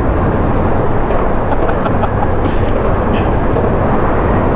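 Loud, steady rumbling noise, heavy in the low end, loud enough to call for earplugs.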